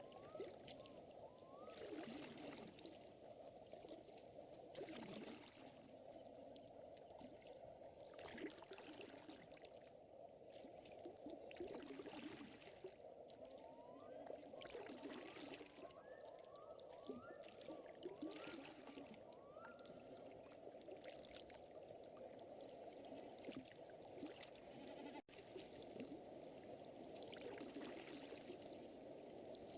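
Faint lakeside night ambience: a steady, dense chorus of small calls with repeated short rising chirps, under soft washes of water lapping every few seconds.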